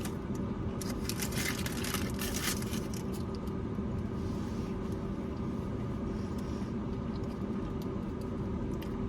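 A car engine idling with a steady hum, heard from inside the car. A brief spell of rustling and crackling comes between about one and two and a half seconds in.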